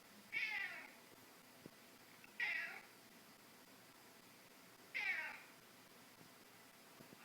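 A cat meowing three times, each meow about half a second long and a couple of seconds apart.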